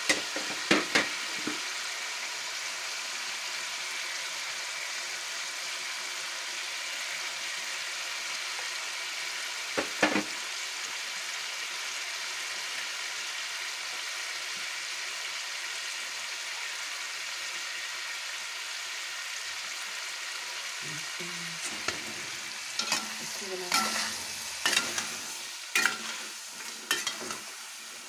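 Chicken pieces sizzling in hot oil in a wide metal pan, a steady hiss. A few sharp knocks near the start and about ten seconds in, and a run of knocks and scrapes in the last several seconds, as a utensil works against the pan.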